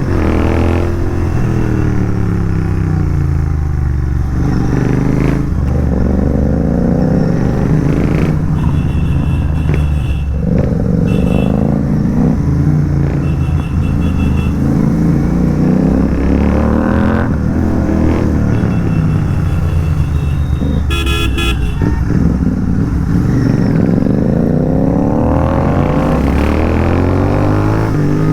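Royal Enfield Continental GT 650's parallel-twin engine, breathing through an aftermarket megaphone exhaust, revving up and falling back repeatedly as it accelerates through the gears and eases off. Vehicle horns honk several times in the middle, loudest a little past two-thirds of the way through.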